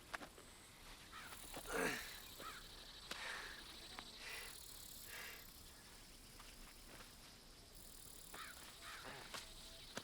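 Faint outdoor nature ambience: scattered short bird chirps over a steady insect drone.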